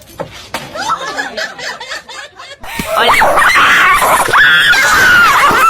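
A person laughing hard in high-pitched fits, quieter at first and then much louder about two and a half seconds in.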